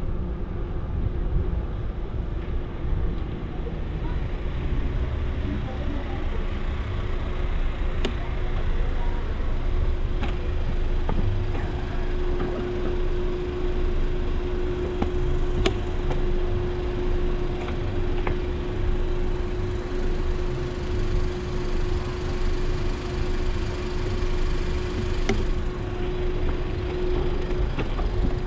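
Wind rumbling on the microphone of a bicycle ride recording, with a steady hum that grows louder partway through and stops near the end. A few sharp clicks stand out.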